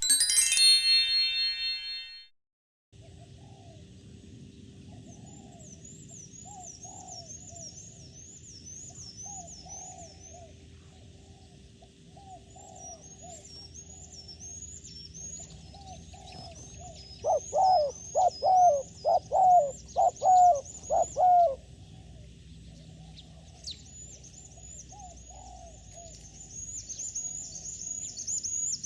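A short ringing chime, then doves cooing over and over, with a louder run of about eight coos near the middle. A quick, high, repeated chirping runs above the coos, and a faint steady hum sits underneath.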